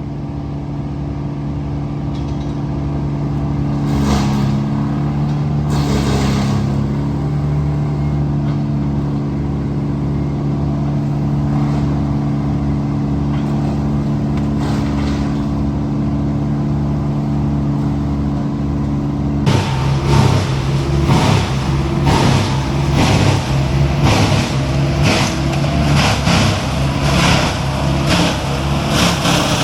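Heavy-equipment diesel engine running steadily; about twenty seconds in the sound turns suddenly louder and rougher, with a rapid crackle over the engine.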